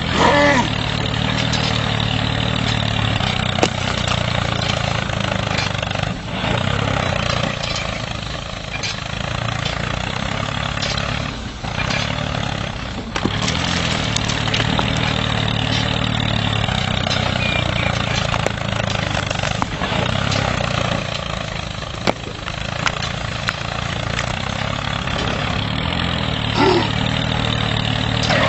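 A small engine running steadily, like a mini tractor's motor at a constant speed.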